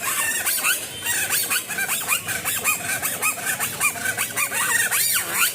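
Kathputli puppeteer's boli (mouth reed whistle) giving the puppets their voices: a rapid run of high squeaky chirps that swoop up and down in pitch, like squeaky chatter.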